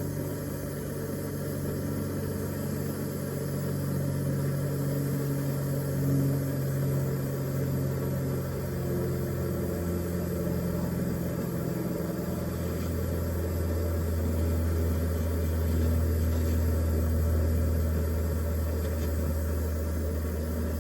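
Blowtorch flame burning steadily, a low rumble with a few steady tones, as it heats a silver coin to anneal it.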